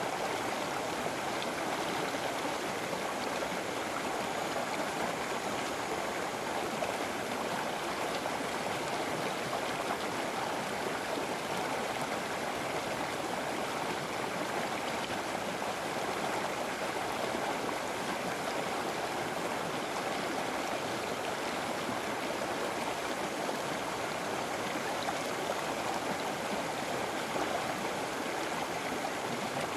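A river flowing steadily over rocks, a continuous rushing, gurgling wash of water with no change in level.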